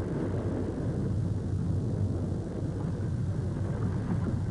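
Freight gondola cars rolling along the rails: a steady low rumble with a hum under it.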